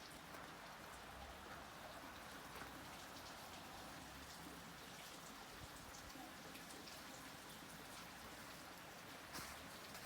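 Faint steady hiss with scattered light ticks, like rain on a surface.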